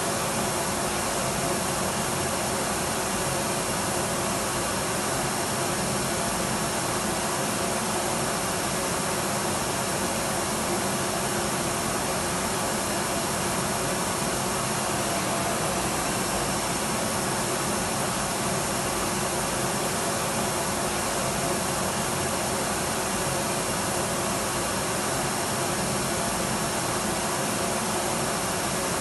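Electric vacuum cleaner running steadily: an even rushing noise of motor and airflow with a faint high whine.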